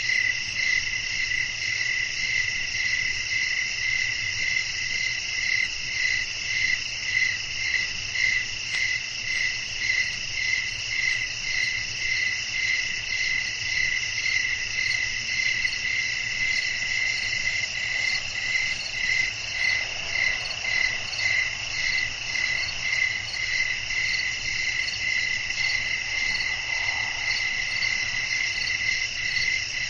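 Night chorus of crickets: several overlapping high trills running on without a break, the loudest pulsing evenly about every two-thirds of a second.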